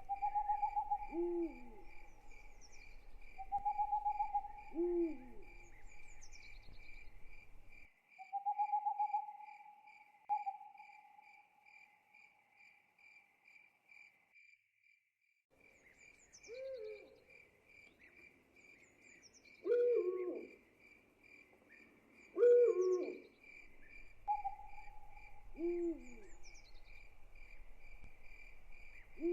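Owls hooting at intervals, some long even hoots and some shorter hoots that drop in pitch, over steady, evenly pulsed cricket chirping. The crickets drop out for a few seconds about halfway through.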